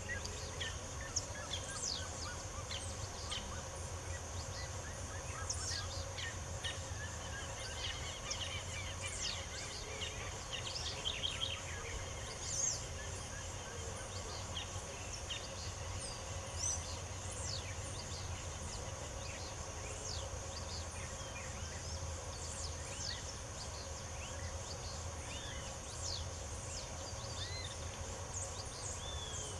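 Several wild birds chirping and calling in short, scattered notes and quick whistled glides, over a steady high-pitched insect drone.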